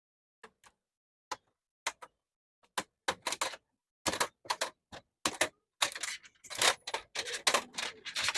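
Sharp clicks and taps from parts of a television being handled during a backlight repair. A few isolated clicks come in the first three seconds, then they quicken to several a second.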